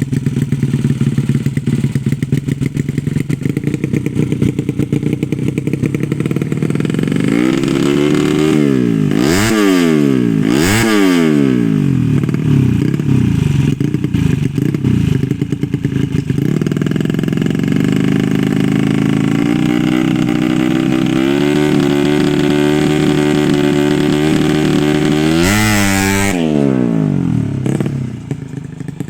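115 cc underbone race motorcycle engine running at a fast idle while its carburettor is being tuned. It is blipped up and straight back down about three times around a third of the way in, and once more near the end, and then drops lower.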